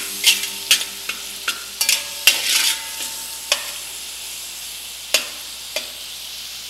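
Prawns and salted diced tomatoes sizzling as they fry in a hammered copper pan, while a metal slotted spatula stirs them, scraping and clicking against the pan. The clicks come quickly for the first three seconds, then only now and then.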